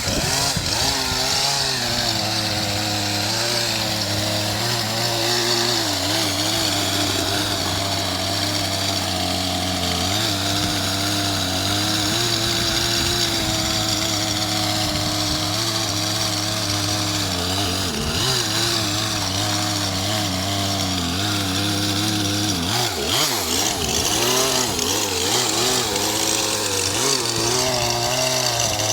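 Two-stroke chainsaw running steadily under load, its engine pitch wavering up and down, with a bigger swing in pitch about two-thirds of the way through.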